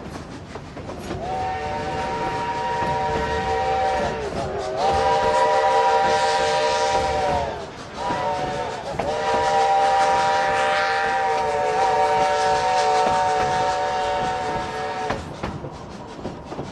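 Narrow-gauge steam locomotive's chime whistle blowing four blasts, long, long, short, long, the pattern of the grade-crossing signal, over the sound of the train working upgrade.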